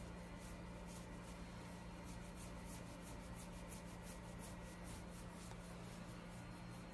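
Quiet room tone: a steady low hum with faint, irregular light ticking and scratching over it.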